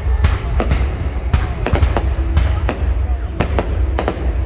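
Fireworks bursting overhead: a rapid, irregular run of sharp bangs, about ten in a few seconds, over a steady low rumble.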